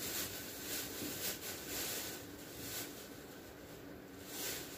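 Cheese packaging rustling and crinkling as the packages are handled, in several short scratchy bursts.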